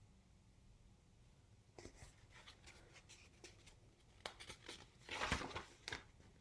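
Paper rustling as a picture-book page is handled and turned: faint scattered clicks and crinkles, then a louder swish of the page about five seconds in.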